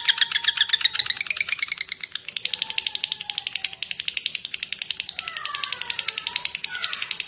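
Lovebird's long 'ngekek' chatter: an unbroken run of rapid, sharp chirps, about a dozen a second, the kind of call played to provoke other lovebirds. From about five seconds in, lower falling whistled notes sound beneath it.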